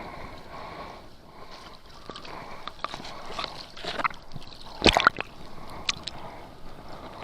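Water sloshing and splashing, with irregular small splashes and one louder splash about five seconds in.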